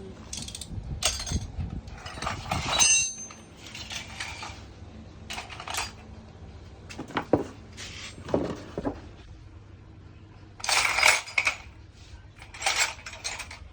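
Metal parts and tools clinking and clattering during lawn mower repair work: a series of separate knocks and scrapes, one of which rings briefly about three seconds in, with longer louder rattles near the end.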